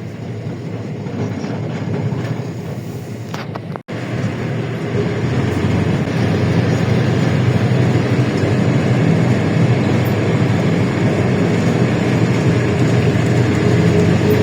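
LiAZ-677M city bus running on the road: steady engine and road noise. It cuts out abruptly for an instant about four seconds in, then comes back louder and stays steady, with a steady whine joining near the end.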